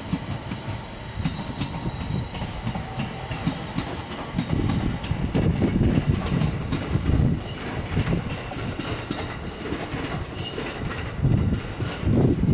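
Electric-hauled container freight train rolling into a station: a steady low rumble of the wagons with repeated clacks of wheels over rail joints, and a faint thin high whine above it.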